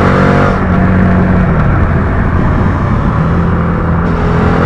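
Suzuki SV650's V-twin engine pulling hard under a rider, with wind rush over it. The engine note dips about halfway through, then climbs steadily again.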